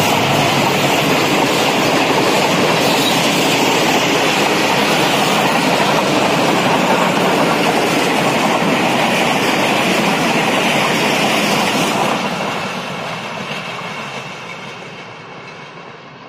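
Passenger coaches of the Tezgam Express rolling past close by, a loud, steady noise of wheels on the rails. About twelve seconds in it starts to fade steadily as the end of the train passes and it draws away.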